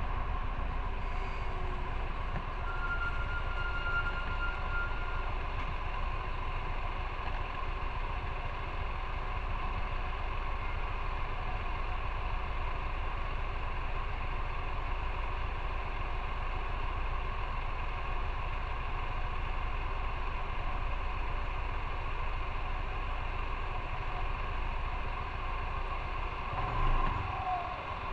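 Riding a motorcycle: steady wind rush and road noise with the motorcycle running at an even speed, and a brief change in the sound near the end.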